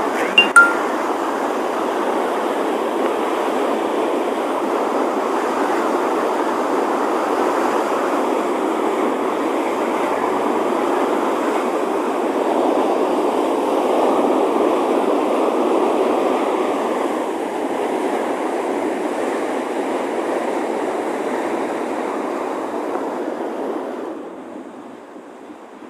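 Chenab River floodwater rushing through a barrage: a loud, steady rushing noise that fades away near the end. Two or three sharp clicks about half a second in.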